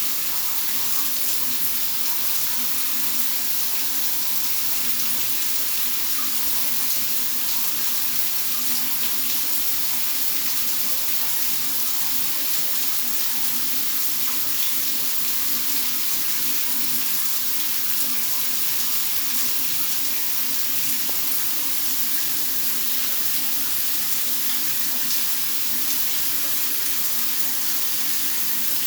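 Steady rain falling, an even hiss with no breaks, with a faint low hum beneath it.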